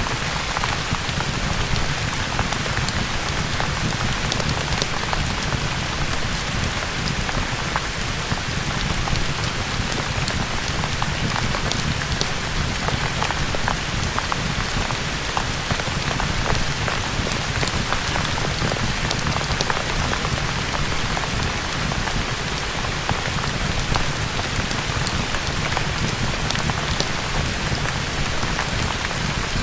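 Steady rain: a dense, even hiss with many scattered sharp ticks of drops.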